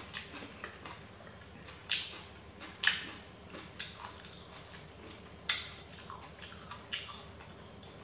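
Close-up chewing of yellow noodles: a few short, sharp, wet clicks and smacks spaced about a second apart. A steady high thin tone runs underneath.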